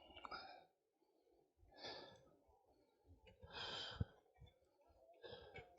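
Faint breathing of a cyclist: three soft breaths about a second and a half apart, with a small click about four seconds in.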